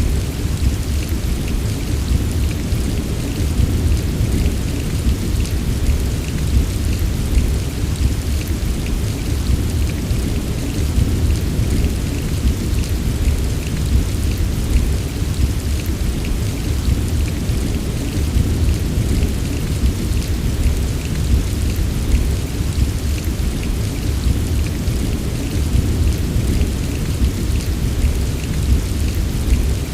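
Steady heavy rain falling, with a constant deep rumble underneath and fine drops ticking. It holds even throughout, with no separate thunderclaps.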